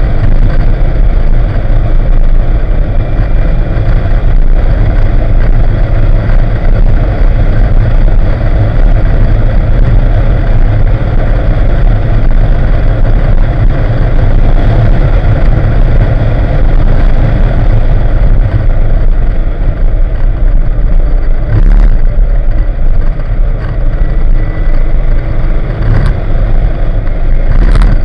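1987 Porsche 944's four-cylinder engine running under load at track speed, heard loud from inside the cabin together with road and wind noise. A few sharp clicks in the last several seconds.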